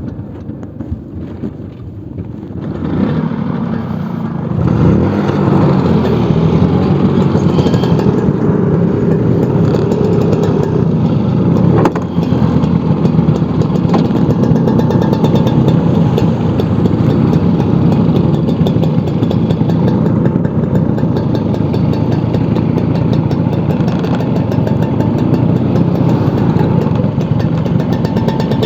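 Vintage Vespa scooter's engine pulling away and running steadily on the road. It gets louder over the first few seconds as it picks up speed.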